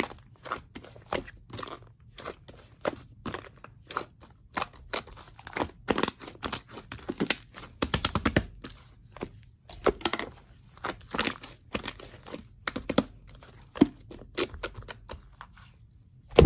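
Clay-mixed slime being squeezed and stretched by hand, giving a stream of irregular sticky pops and crackles.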